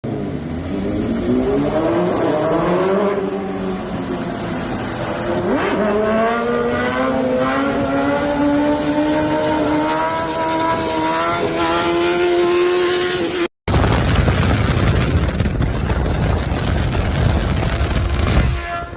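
Superbike engine pulling hard up through the gears, its pitch climbing with a drop at each shift. It cuts off abruptly, then a louder rough rumble follows.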